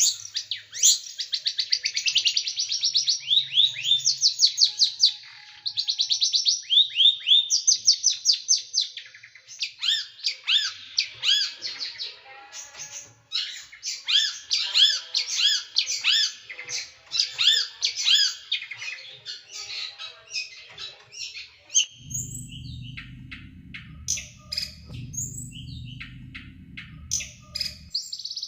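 A small songbird singing long runs of fast, sharp, closely repeated chirps, the rapid burst-type song that bird keepers call "tembakan" (shooting). A low rumble sits under the song for the last several seconds.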